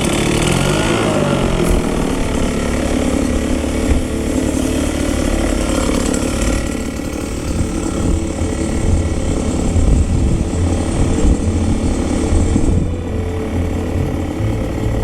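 Steady mechanical running noise with a rattle, like an engine-driven machine, changing in character about halfway through and again near the end.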